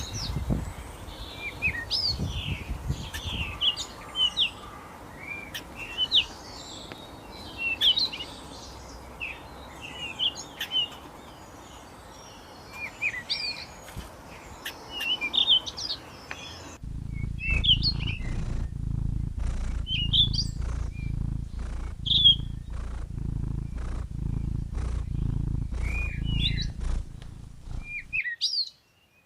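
Small birds chirping over and over in short calls that slide up and down in pitch. About two-thirds of the way through, the background switches abruptly to a steady low rumble under the chirps.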